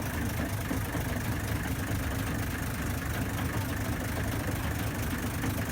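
Ferry engine running steadily, heard on board: an even low rumble with a hiss of water and wind above it.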